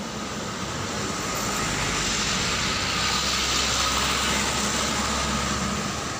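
A truck passing on the road, its engine and tyre noise swelling to a peak about halfway through and then fading, with a steady low rumble and wind noise on the microphone of a moving bicycle.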